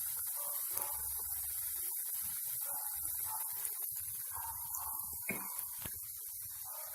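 Hot oil sizzling steadily around semolina-coated vegetable patties as they fry, with a couple of faint clicks about five seconds in.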